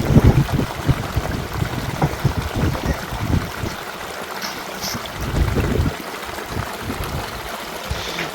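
Water running steadily, like a small stream, with gusts of wind rumbling on the microphone for the first six seconds or so.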